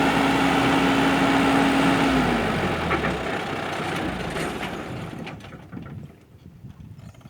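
Tractor tilling a field, its engine running with a steady tone that drops in pitch about two seconds in, then the machine noise fades away over the next few seconds.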